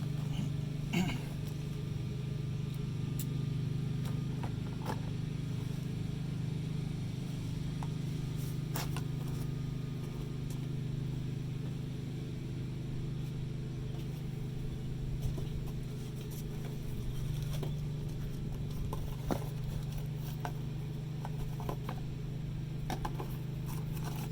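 A steady low hum with scattered light clicks and taps of small parts being handled, as a fuel pump assembly is fitted together by hand.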